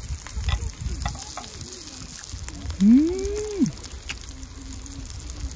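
Pork belly and minari sizzling on a cast-iron griddle. About three seconds in, a person gives one long appreciative "mmm" hum that rises and then falls in pitch.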